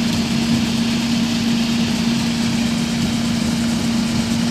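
Combine harvester engine running steadily, with an even hum held over the engine noise.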